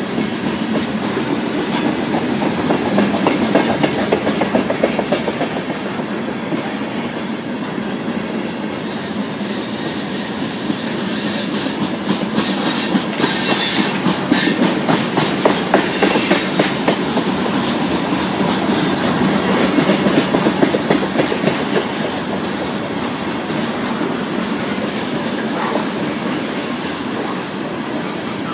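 Freight train of tank cars rolling past: a steady rumble of steel wheels with rapid clicking over rail joints, and a few brief high-pitched wheel squeals about halfway through.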